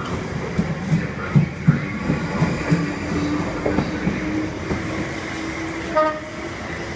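Class 458 electric multiple-unit train running, its wheels knocking over rail joints and points in a clickety-clack, with a steady, slightly rising motor whine through the middle. A brief pitched tone sounds about six seconds in.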